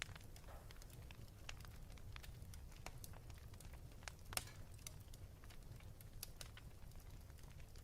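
Faint wood fire crackling in a fireplace, with scattered sharp pops over a steady low rumble; the loudest pop comes about four and a half seconds in.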